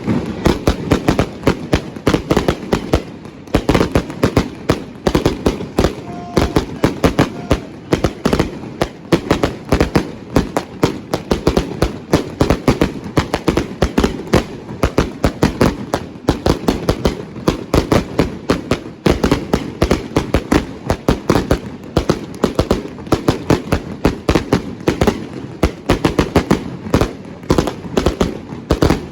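A string of firecrackers going off in a rapid, unbroken run of sharp bangs, several a second, with no let-up.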